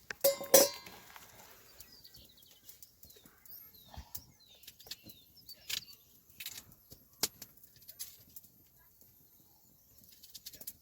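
Two loud clattering hits with a brief ringing tone right at the start, then scattered sharp clicks and taps, over faint short chirps of small birds.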